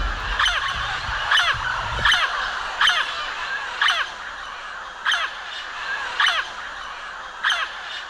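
Macaw giving harsh, repeated squawks, roughly one a second, each call falling in pitch.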